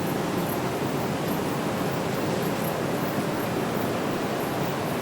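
Steady city street ambience: an even, unbroken wash of noise with no single sound standing out.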